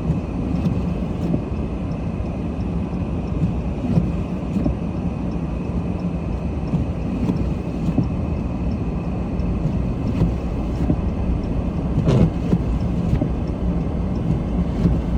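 Steady engine and road rumble heard from inside a car's cabin while driving on a snow-covered street, with a few faint clicks.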